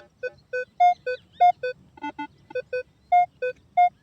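Metal detector beeping as the coil sweeps back and forth over a buried target: short electronic tones, about three a second, switching between a low and a slightly higher pitch, with two lower tones about two seconds in. The signal breaks up, which the detectorist takes as a sign that the target may be iron.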